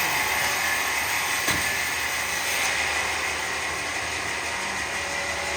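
Steady machine noise from a running workshop machine, with a single click about a second and a half in.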